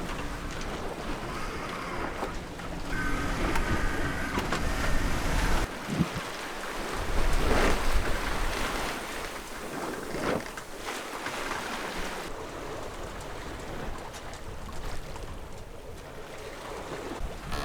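Water rushing and splashing along a sailing yacht's hull as it runs downwind under sail, with wind buffeting the microphone. The wash swells louder a couple of times midway.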